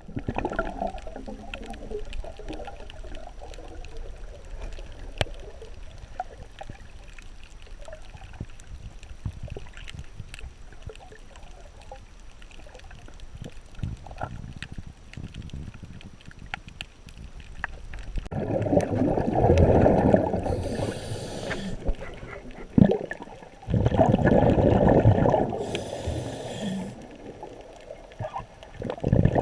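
Underwater sound of a scuba diver's exhaled bubbles from a regulator, coming in two loud gurgling surges about two-thirds of the way in and again a few seconds later. Before them there is a steady light crackle of small clicks.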